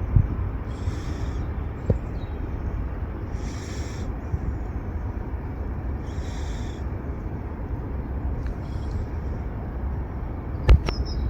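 Easyjet Airbus A320-200 jet engines giving a steady low rumble on arrival. A short raspy high sound repeats about every two and a half seconds over it, with a sharp knock near the end.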